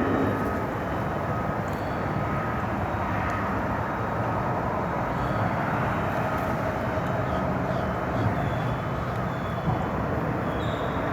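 Train rolling across a river drawbridge, a steady, even rumble and hiss with no clear beat of wheel clicks, and a few faint short high squeals in the second half.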